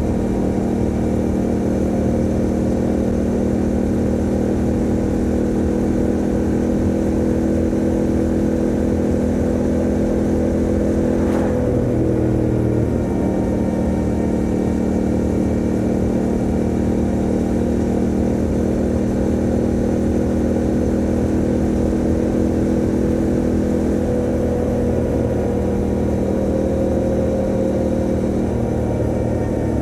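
Motorcycle engine running at a steady cruising speed. About twelve seconds in, the revs dip briefly and then settle again.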